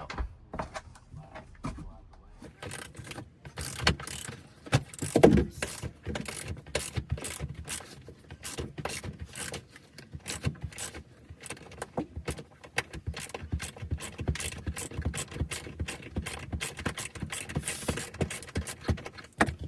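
Hand socket ratchet clicking steadily, about four clicks a second, as bolts are worked loose; there is one louder thud about five seconds in.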